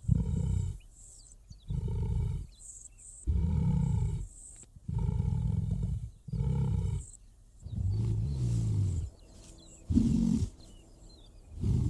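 A lion roaring: a series of about seven deep calls, each up to about a second long with short pauses between, the last one shorter.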